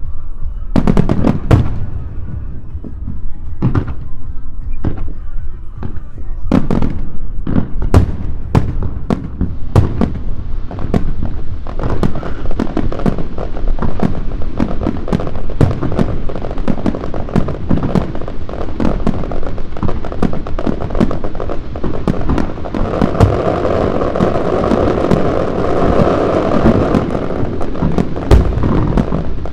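Fireworks display: aerial shells bursting with sharp bangs, a few seconds apart at first, then quickening into a dense, rapid barrage. The barrage thickens into a continuous wall of sound over the last few seconds.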